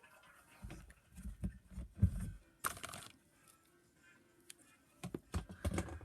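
Irregular clicks, knocks and rustling, like small hard objects being handled, with a sharp click about two and a half seconds in and a quick run of knocks near the end.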